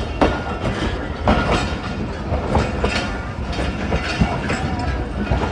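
Train running with its wheels clattering over the rails: a steady low rumble with irregular sharp clicks and knocks.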